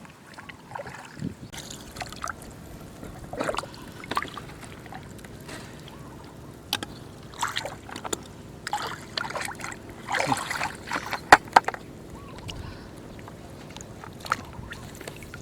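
Shallow flowing water sloshing and splashing in irregular strokes as it is disturbed, with a few sharp clicks, the loudest a little after the middle.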